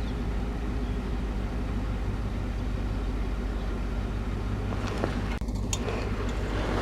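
Diesel engine idling steadily, with a few light clicks and knocks about five seconds in.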